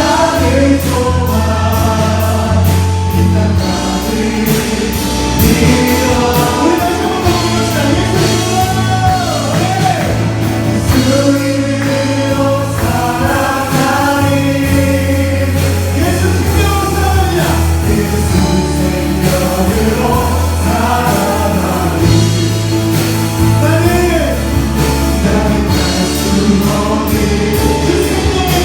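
Contemporary Christian worship song performed by a praise band: a group of voices singing the melody over held bass notes, with steady cymbal ticks near the start and end.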